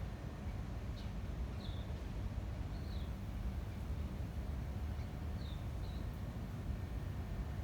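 Wind buffeting the microphone as a steady low rumble, with a small bird giving short, falling chirps every second or two.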